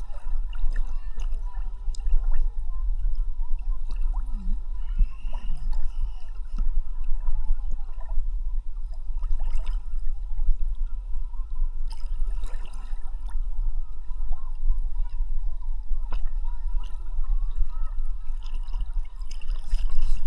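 Seawater sloshing and gurgling around a camera held at the surface by a swimmer, with a steady low rumble and scattered small splashes and clicks.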